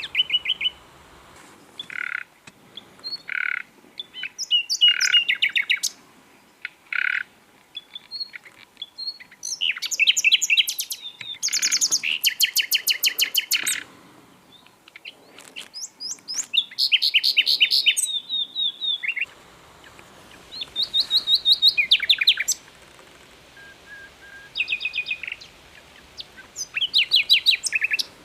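Common nightingale singing: about ten separate phrases of rapidly repeated notes and short whistles, with pauses of a second or two between them.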